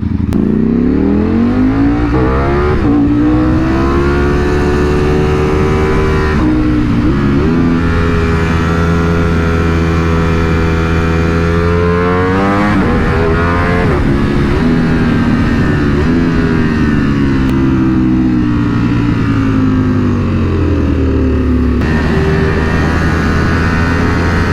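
Ducati V4 SP sportbike's V4 engine pulling hard along a twisty road, its pitch climbing and then dropping sharply again and again as the rider shifts gears and rolls on and off the throttle.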